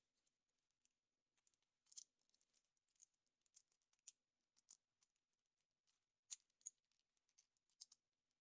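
Faint, scattered crinkles and clicks of hands unwrapping a foil-wrapped chocolate surprise egg and handling its plastic capsule, with a few sharper crackles about two seconds in and near the end.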